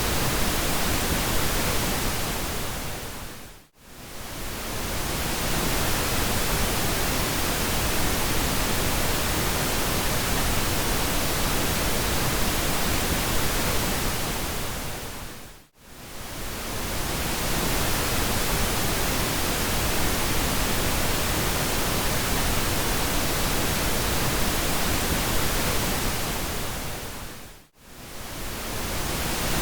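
Steady pink noise, an even hiss spread across all pitches. It fades down to near silence and straight back up three times, about every twelve seconds.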